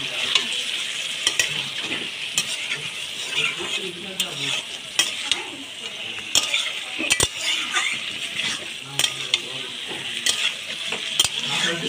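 Pointed gourd pieces in a spiced yogurt masala sizzling in oil in a metal kadai while a spatula stirs them, with irregular clicks and scrapes of the spatula against the pan. The gourd is being sautéed down (kosha), about half done.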